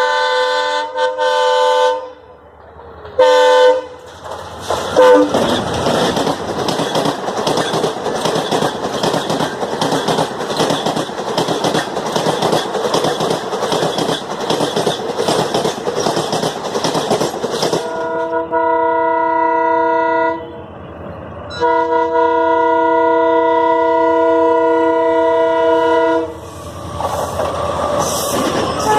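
Diesel locomotive horn sounding several short blasts, then a train passing at speed with its wheels clattering over the rail joints in a steady beat. After about eighteen seconds the horn sounds two long blasts with a brief gap between them.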